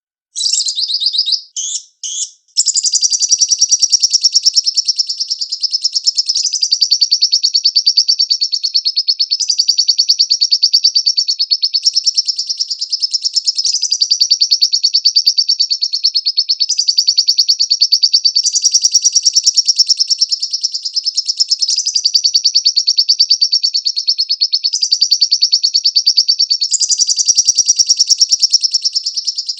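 Lovebird singing a long, very fast chattering trill: a few short bursts at first, then about two seconds in it runs on without a break, shifting pitch every few seconds.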